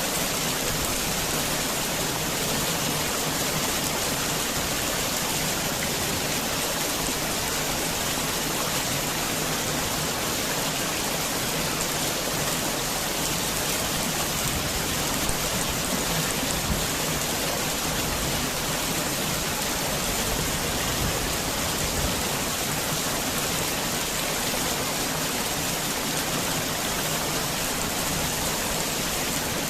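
Heavy rain falling steadily, an even unbroken hiss of rain with no lull.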